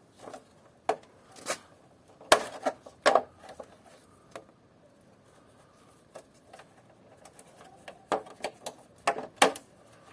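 Scattered clicks and knocks of plastic and metal parts of an air-conditioning unit being handled and worked apart by hand. They come in two clusters, one in the first few seconds and one near the end, with a quieter gap between.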